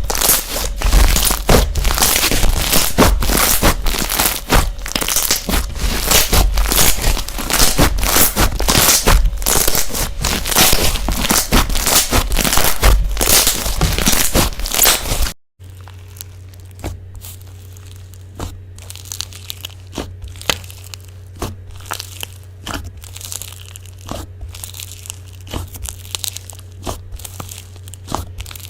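Slime being squished and poked by hand, making a dense, fast run of crackling, crunchy pops. About halfway through it cuts to a quieter clip, with sparser pops over a steady low hum.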